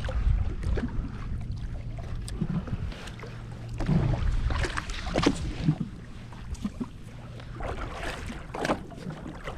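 Sounds aboard a jet ski at sea: wind buffeting the microphone and water against the hull, over a low steady hum during the first few seconds, with scattered small knocks and clicks.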